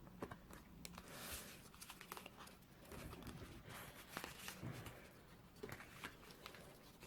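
Faint rustling and light taps of cardstock being handled and pressed into place as a glued box is settled inside another.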